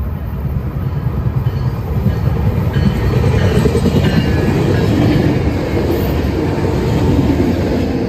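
Tri-Rail commuter train of double-deck coaches passing close by, its wheels running on the rails with a heavy rumble. The sound builds about two seconds in, stays loud while the cars go past, and starts to fade near the end.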